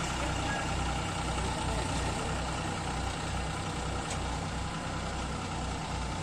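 Diesel tractor engine running steadily with a low, regular throb.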